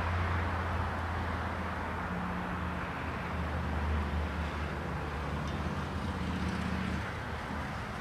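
A steady low mechanical hum over a broad rushing noise, its pitch wavering slightly, easing off about seven seconds in.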